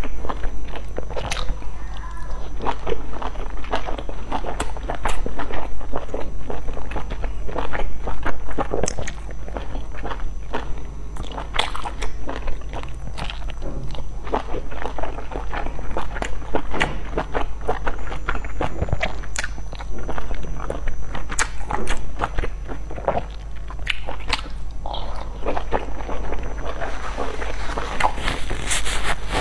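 Close-miked mouth sounds of a person eating soft dumplings: biting, chewing and wet lip smacks, a dense run of small irregular clicks. A steady low hum lies underneath.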